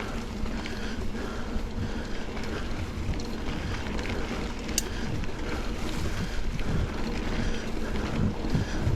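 Mountain bike riding along a dirt double-track trail: tyre rumble on the ground mixed with wind buffeting the microphone, with one sharp tick about five seconds in.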